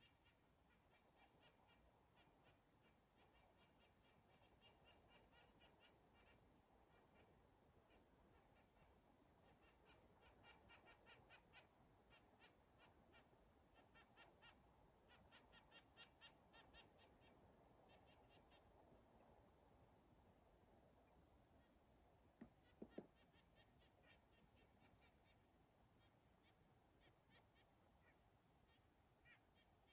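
Near silence with faint bird calls: repeated short trills and scattered very high chirps, and a couple of soft knocks a little past the middle.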